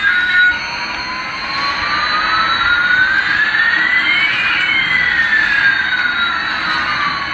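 Electronic whooshing sound effect: two tones glide slowly in opposite directions over a hiss, one rising and one falling, crossing about halfway through.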